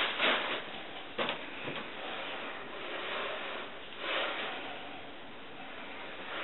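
A benchtop band saw being handled on a wooden board: a few light knocks about a second in, then rubbing and shifting sounds.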